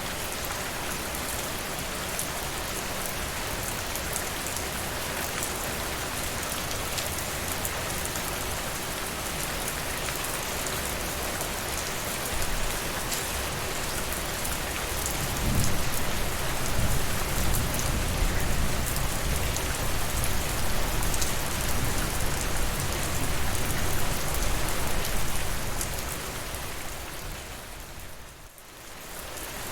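Steady rain falling with fine pattering drops. A low rumble swells up about halfway through and carries on for around ten seconds. Near the end the sound briefly fades down and comes back.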